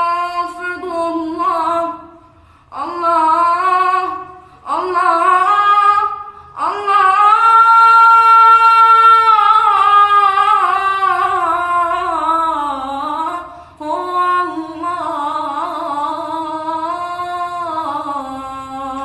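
A woman singing an Arabic ibtihal (Islamic devotional chant) unaccompanied, in long ornamented phrases with short breaks for breath. The longest phrase is a note held and wavered from about seven seconds in, then sliding down before the last phrase.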